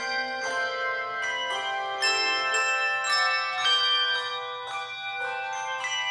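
Handbell choir playing: chords of handbells struck every half second to a second, each ringing on.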